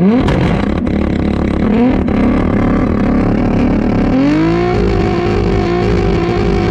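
VW Mk3 with a swapped-in turbocharged 1.8T four-cylinder engine accelerating hard. The engine's pitch climbs at the start, again about two seconds in, and once more about four seconds in, then holds steady at high revs.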